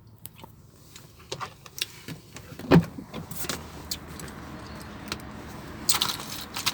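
Handling noises inside a parked car: scattered clicks, one dull thump about three seconds in, and keys jangling and rustling near the end.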